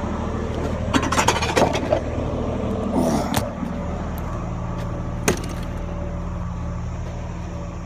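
Roll-off truck's diesel engine idling steadily, with metal clanks and rattles about a second in, a scraping clank around three seconds, and one sharp knock near five seconds as the steel hook and chain are handled against the container.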